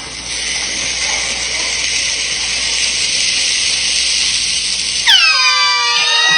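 Tortillas heating on a hot pan give off a steady, growing hiss of escaping steam. About five seconds in, it breaks into a loud, high wailing squeal of several tones that fall in pitch and then hold, like a tormented cry.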